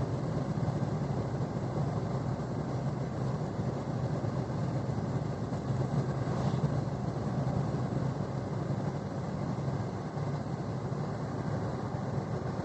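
Steady engine drone and road noise inside the cab of a moving truck.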